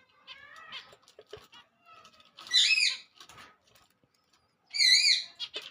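Pet cage birds calling: a few soft chirps, then two loud, high calls that bend in pitch, about two and a half seconds apart.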